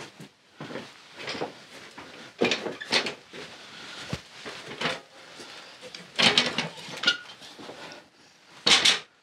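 Irregular clattering and knocking of hard objects being handled and set down, in several separate bursts with the loudest near the end.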